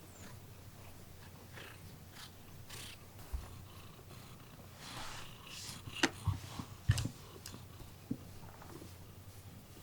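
Scottish Fold cat purring steadily, with a few sharp clicks and light rustles about six to seven seconds in.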